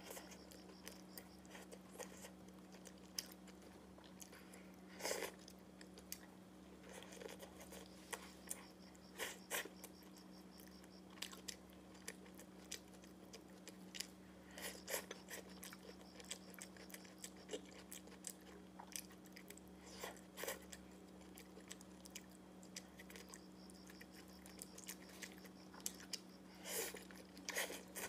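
Close-up chewing of a person eating a steamed bun and stir-fried dishes, with many short sharp mouth clicks scattered throughout, over a steady low hum.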